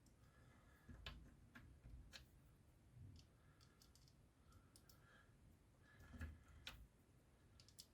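Faint, scattered clicks of small screwdriver bits being handled while Torx bits are picked out, with near silence between them.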